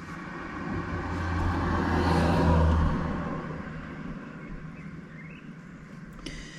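A motor vehicle driving past, its sound swelling to a peak about two and a half seconds in and then fading away.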